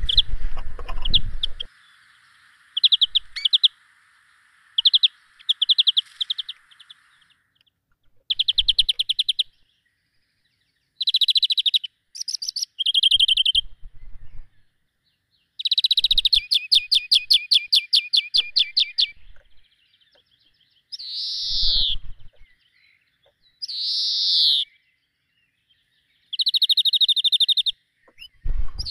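Small birds chirping in repeated bursts of rapid, buzzy trills, with several loud downward-sweeping calls in the second half. A few low thumps come near the start and again later.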